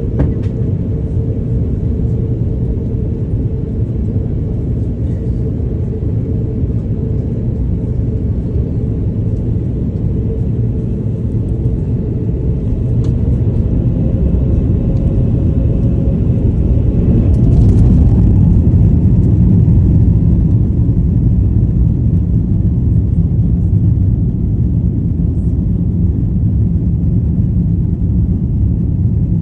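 Airbus A350-1000's Rolls-Royce Trent XWB engines and airframe rumbling during the takeoff, heard from inside the cabin: a steady engine tone and heavy rumble. About halfway through, the tone rises in pitch and the rumble grows louder as thrust builds for the takeoff roll.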